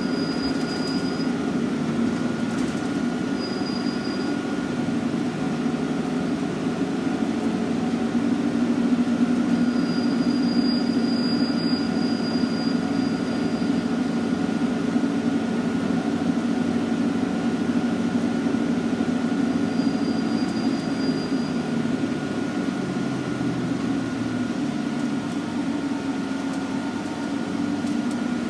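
Scania N113CRB bus's diesel engine running steadily, with a continuous high whine over the engine note. It gets a little louder in the middle, and a few brief, faint high squeals come and go.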